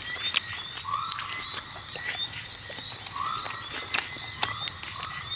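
Outdoor animal calls: quick short chirps repeating about two to three times a second, with a louder, lower call every second or two, over a steady high-pitched buzz and scattered clicks.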